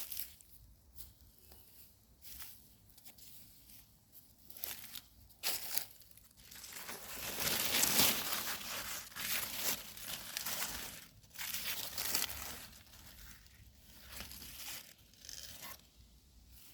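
Rustling and crinkling handling noises, with scattered sharp clicks and a denser, louder stretch of crackling in the middle.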